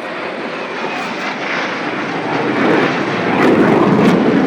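Military jet aircraft in a flyby, the jet roar steadily growing louder as it comes closer.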